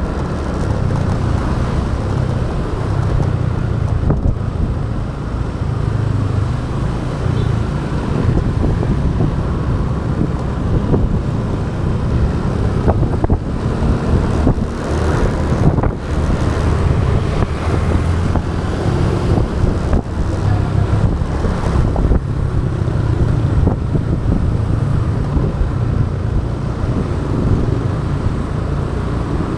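Wind buffeting the microphone of an action camera on a moving motorbike, a steady low rumble, with the motorbike's engine and road traffic running underneath.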